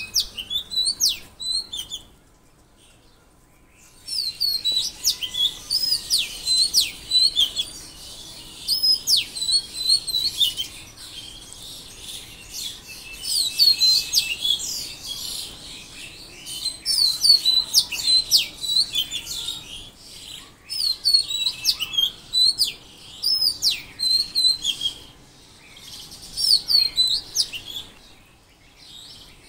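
Songbirds singing in bursts of quick, high chirps and trills, each burst a few seconds long with short pauses between them.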